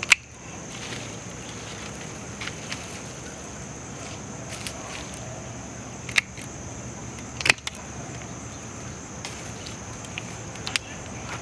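Outdoor garden ambience: a steady high-pitched insect chorus, with scattered sharp clicks and rustles, the loudest two about six and seven and a half seconds in.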